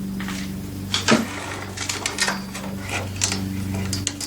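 Irregular metallic clicks and clinks of a chainsaw bar and chain being handled and fitted onto the saw, the loudest about a second in, over a steady low hum.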